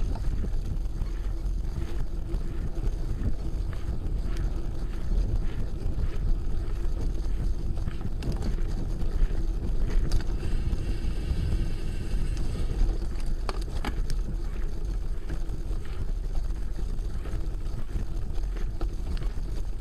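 Wind buffeting the microphone over the rumble of a mountain bike rolling along a trail, with scattered clicks and rattles.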